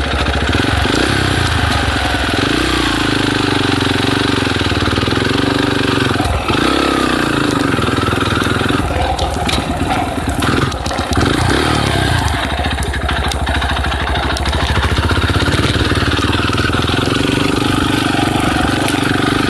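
Dirt bike engine running loud and steady, its pitch swinging up and down a few times as the throttle is opened and eased off.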